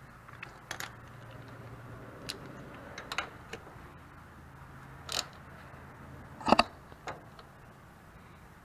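Scattered metal clicks and clinks of a socket wrench as the oil sump drain plug of a 1999 Honda 400EX ATV is put back in and tightened down. The sharpest click comes about six and a half seconds in.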